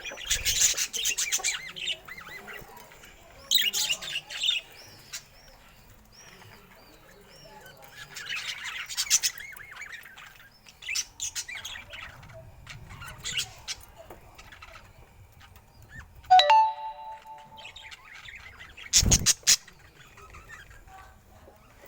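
Budgerigar chirping and chattering in bursts of rapid high notes every few seconds, with one short pitched call about three-quarters of the way through and a brief loud rustle or thump soon after.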